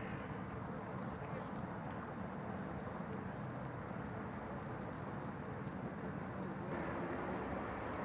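Steady outdoor background noise with a faint low hum, under faint, short high-pitched chirps of small birds scattered through the first six seconds or so. About two-thirds through the background noise becomes slightly louder and fuller.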